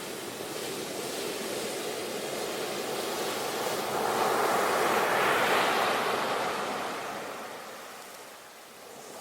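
Ocean waves washing onto a shore: one wave swells up, breaks about four to six seconds in, then draws back and goes quiet before the next wave builds near the end.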